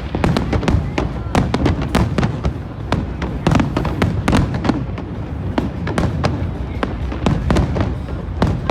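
A fireworks display: a dense, irregular run of sharp bangs and cracks, several a second, over a continuous low rumble of further bursts.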